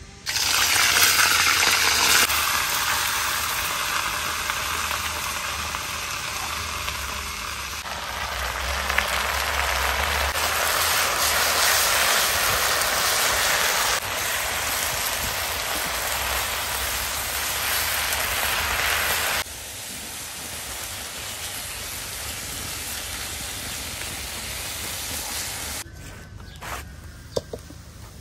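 Leafy greens sizzling loudly as they hit a hot iron wok and are stir-fried with a wooden spatula. The sizzle starts suddenly and eases to a lower hiss about two-thirds of the way through. It stops near the end, followed by a few light clicks.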